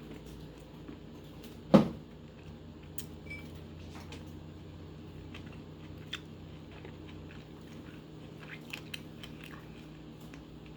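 A person biting into a ripe Rainier cherry, one loud sharp bite a little under two seconds in, then chewing with scattered small clicks and mouth sounds.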